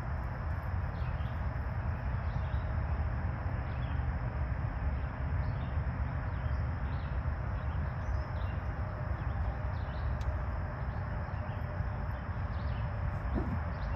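Outdoor ambience: a steady low rumble with scattered faint, short high chirps throughout.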